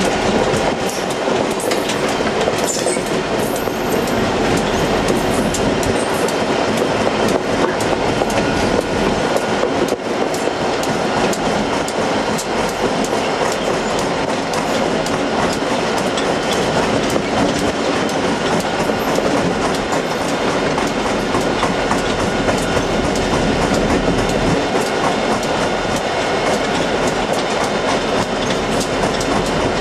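Freight cars of a passing train rolling by steadily, wheels clicking over the rail joints in a continuous clickety-clack.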